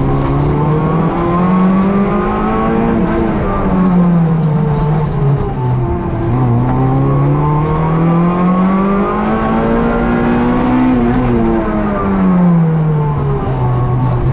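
Rally car's engine heard from inside the cabin, climbing in pitch under acceleration and falling back as the car slows, twice over.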